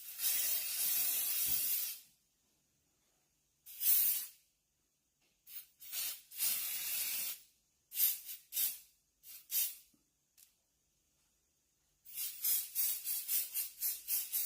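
Silhouette Pure Formula Invisible Hold hairspray being sprayed in bursts: one long spray of about two seconds, several shorter sprays, then a quick run of short puffs near the end.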